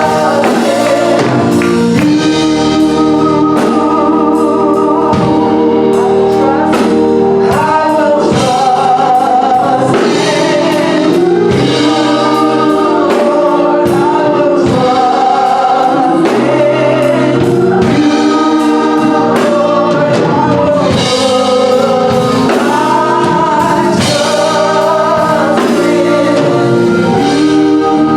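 Gospel choir singing a slow song over steady instrumental accompaniment with a regular beat.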